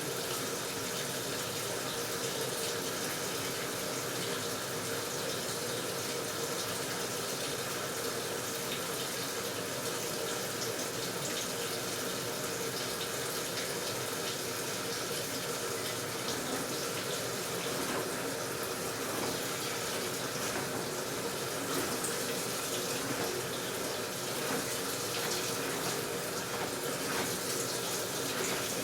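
AQUA washing machine filling its tub with water: a steady rush of water pouring in, with a faint steady hum underneath.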